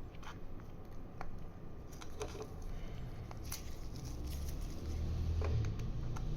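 Scattered small clicks and ticks of tools and plastic parts as a smartwatch is taken apart by hand, over a low rumble of handling noise that grows louder in the second half.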